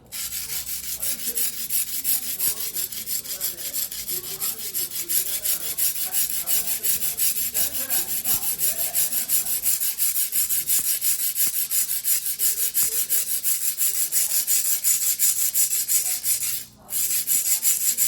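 A single-bevel fuguhiki sashimi knife of white steel being ground by hand on a wet whetstone: a rasping scrape in quick, even back-and-forth strokes, several a second. Near the end it stops for a moment and then starts again.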